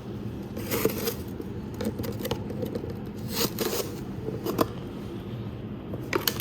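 Ash being scraped out of a homemade fireplace: several short, separate scraping strokes over a steady low hum.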